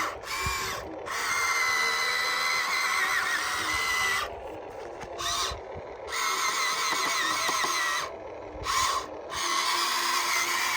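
Small electric motors of a radio-controlled model construction machine whining at a high pitch, the pitch wavering. The whine cuts out briefly and starts again several times.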